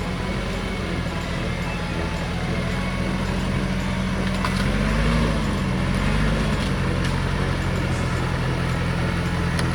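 Massey Ferguson tractor's diesel engine running steadily, its pitch rising briefly twice near the middle before settling back.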